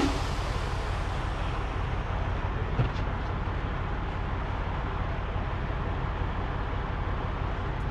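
Semi-truck's diesel engine running steadily at idle, heard from inside the cab, with a couple of short knocks, one at the start and one about three seconds in.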